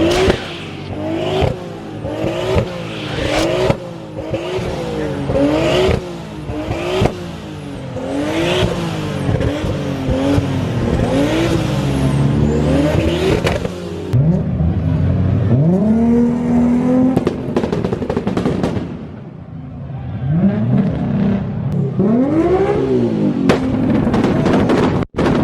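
Modified car engine revved over and over, the pitch rising and falling about once a second, with sharp exhaust pops and bangs. Later the car pulls away twice, its engine pitch climbing steadily each time.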